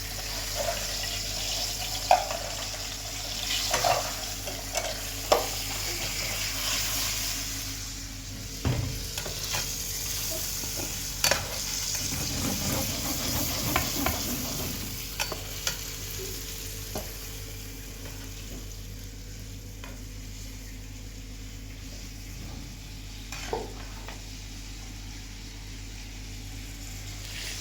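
A steady sizzling hiss with scattered sharp clicks and knocks, easing off about halfway through.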